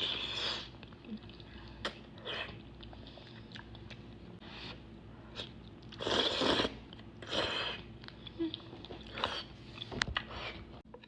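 A person eating close to the microphone: a string of short biting and chewing mouth sounds, the longest and loudest about six seconds in.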